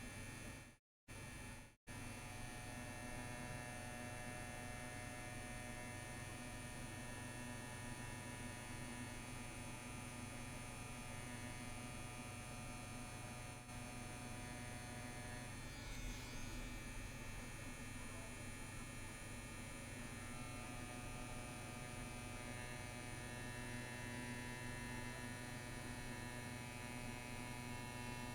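CNC WE tattoo machine running with a steady buzz and hum as its needle is drawn through practice skin, with a brief cut-out in the sound about a second in.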